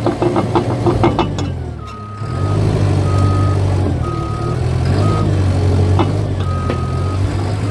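Cat bulldozer's diesel engine running under load, with the steel tracks clanking rapidly for the first second or so. From about two seconds in, the reversing alarm beeps steadily as the dozer backs up.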